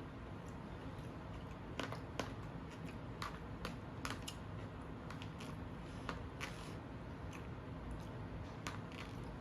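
Close-up mukbang eating sounds: a person chewing, with scattered, irregular sharp mouth clicks over a low steady background.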